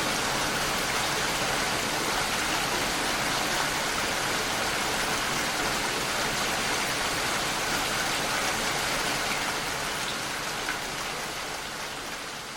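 Steady rain falling, an even hiss of many drops that begins to fade out over the last couple of seconds.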